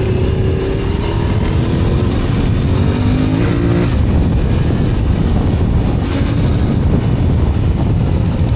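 Dual-sport motorcycle engine running under way under heavy wind rumble. Its pitch falls in steps, rises briefly about three and a half seconds in, then drops away, leaving mostly wind rumble.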